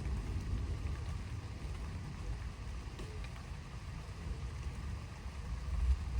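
Thunderstorm wind buffeting the microphone in a choppy low rumble, over a faint hiss of rain.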